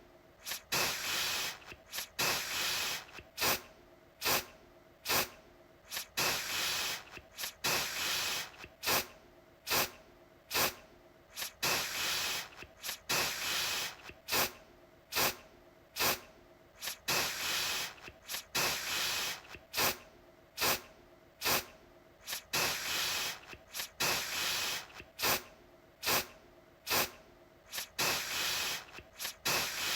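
Aerosol deodorant spray can hissing in repeated spurts. Very short, sharp puffs alternate with longer sprays of about a second, one or two a second.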